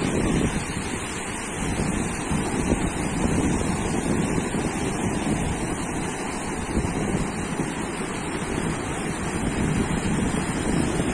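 Ocean surf washing onto a sandy beach in a steady, unbroken wash, with wind rumbling on the microphone.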